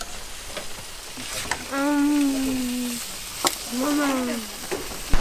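Steady crackling hiss with a few sharp taps. A person makes two drawn-out vocal sounds over it, about two and four seconds in, the first held for about a second and falling slightly in pitch.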